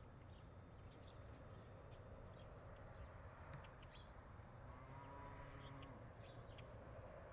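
Faint night-time forest ambience: scattered short high chirps over a low steady rumble of distant city traffic, with a faint held tone about five seconds in.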